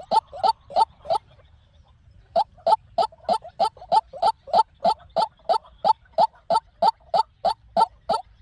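White-breasted waterhen calling in a fast series of short, repeated notes, about three a second. It breaks off about a second in and resumes after a pause of about a second.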